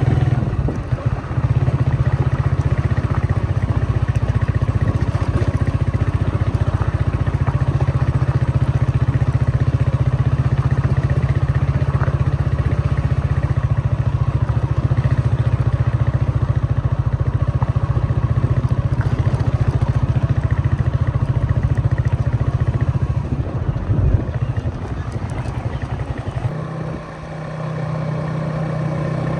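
Road vehicle noise with a strong, steady low rumble, broken by one sharp knock near the end.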